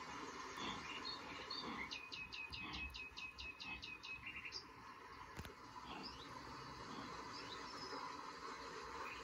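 Birds chirping and calling over a soft background hiss, with a fast run of about a dozen short falling notes in the middle.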